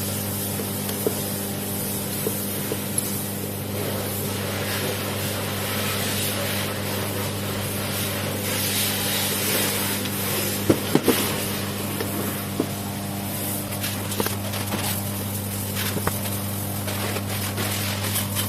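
A steady machine hum under an even hiss, with scraping and a few sharp clicks about eleven seconds in; it cuts off suddenly at the end.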